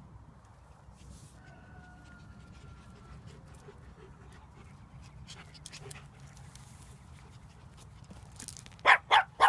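A Havanese puppy whines faintly, then three quick, sharp yaps near the end.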